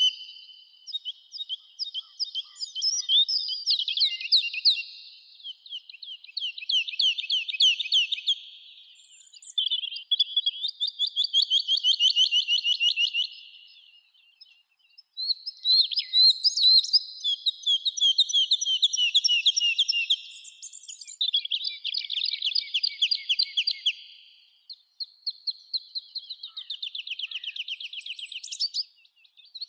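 Songbirds singing: one rapid trilled phrase after another, each two to three seconds long, with short pauses between.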